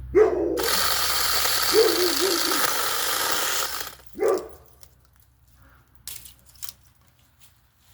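Battery mini chainsaw cutting through a tree branch as a dense buzzing hiss lasting about three seconds, then stopping. Short animal calls come just before the cut, once during it and once just after.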